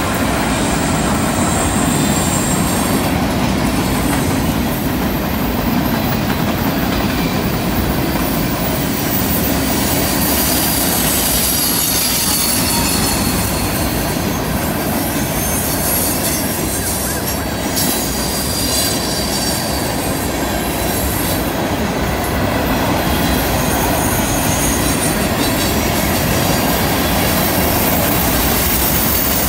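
Freight train rolling past through a curve: a steady heavy rumble of steel wheels on rail, with high-pitched wheel squeal coming and going as the cars round the curve.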